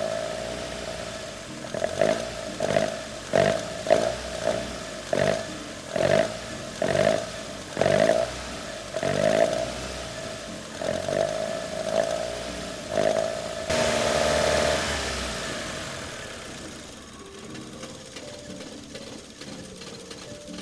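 Toyota Altezza's 3S-GE BEAMS four-cylinder on individual throttle bodies, revved in short blips by hand at the throttle about once a second, then held up briefly and let fall back to a lower, uneven run. The engine runs but will not idle on its own.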